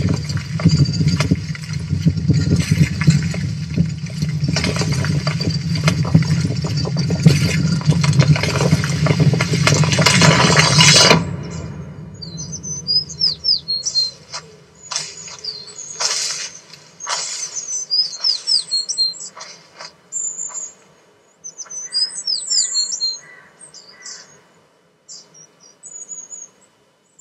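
A loud, low rumble for about the first eleven seconds, cutting off suddenly; then birds chirping and singing in short phrases with quiet gaps between them.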